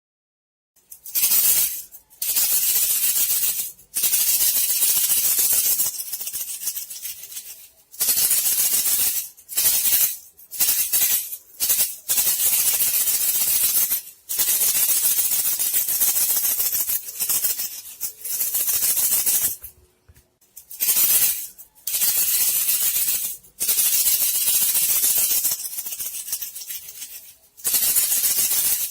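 Dry, high-pitched rattling of a vibrated thin bamboo strip (Thai 'tok'), a lure call for bandicoot rats, coming in repeated bursts of one to two seconds with short breaks between them.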